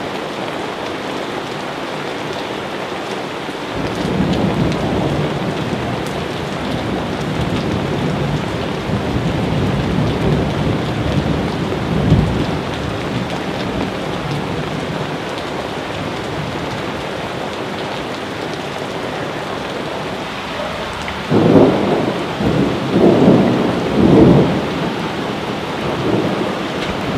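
Steady rain with rolling thunder. A long low rumble builds about four seconds in and rolls on for several seconds, and a louder peal of several booms comes near the end.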